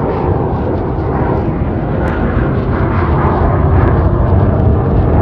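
Avro Vulcan bomber's four Rolls-Royce Olympus turbojets, a loud, steady, low rumbling jet roar that swells slightly as the aircraft approaches.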